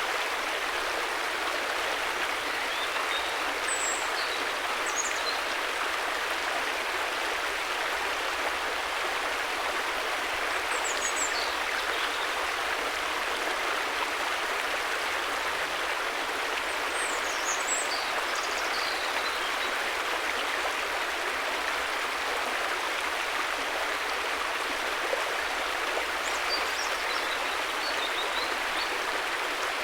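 River water flowing steadily: an even, unbroken rushing. Faint high chirps come through a few times.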